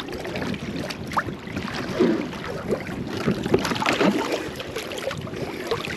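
Water splashing and lapping around a small boat, with wind on the microphone.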